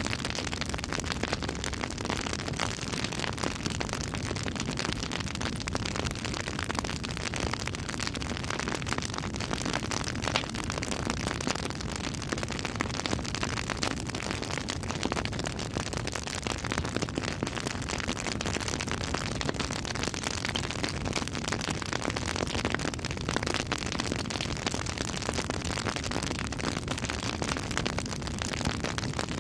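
Campfire burning: a dense, continuous crackle of small pops and snaps over a steady hiss of flames.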